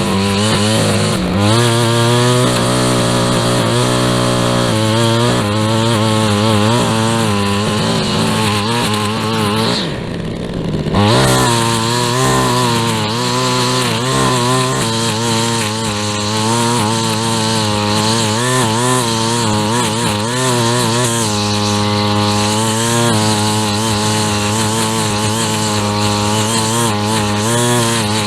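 Two-stroke handheld lawn tool, a string trimmer or edger, running near full throttle with its pitch wavering as it cuts. The throttle eases off briefly about ten seconds in, then comes back up.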